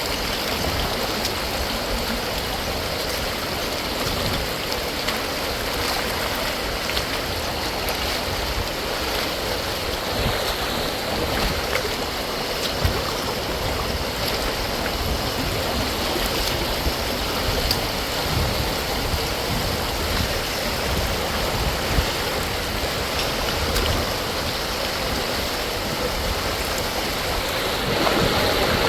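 Steady rush of heavy storm rain and running rainwater, an even unbroken wash of noise.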